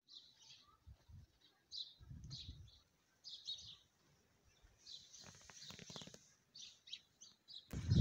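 Small birds chirping in short, scattered calls, with patches of low rumble on the microphone and a louder rumble starting near the end.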